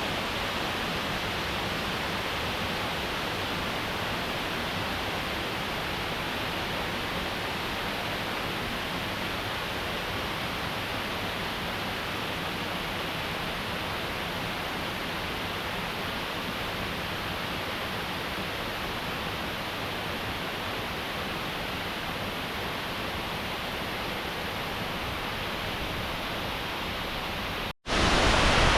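Waterfall: a steady, even rush of falling water. It cuts out for an instant near the end and comes back louder.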